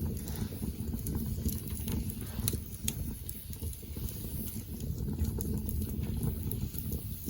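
Wood campfire burning: a steady low rush of flame with scattered sharp crackles and pops of the burning wood.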